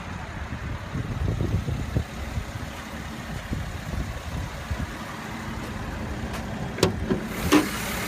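2016 Mercedes-Benz GLE 350's engine idling with a steady low rumble. Two sharp clicks come near the end, about a second apart.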